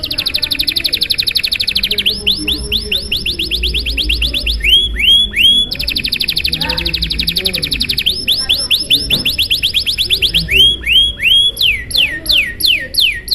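Domestic canary singing a long, unbroken song of rapid trills: fast rolls of short high notes, switching between runs of quick downward-sweeping notes. Near the end it sings a few slower, longer downward sweeps.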